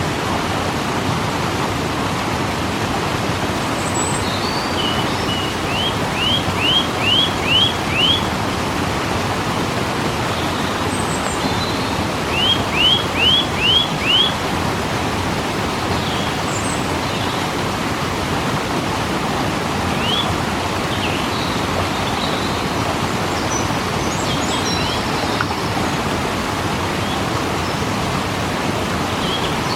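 Steady rushing of a waterfall. A bird calls over it twice, each time with a quick run of five or six high, rising notes, and there are a few scattered chirps.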